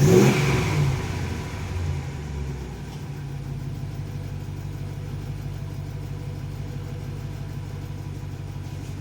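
A 2014 Ram 2500's 5.7 Hemi V8, breathing through a Thrush Hush muffler with the stock resonator still in place, is blipped once and falls back within about a second. A smaller blip follows near two seconds, then the engine settles into a steady idle. The exhaust note is quiet.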